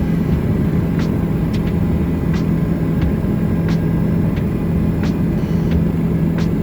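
Helicopter noise in flight: a loud, steady drone of engine and rotor with a constant low hum, and faint light ticks at uneven intervals.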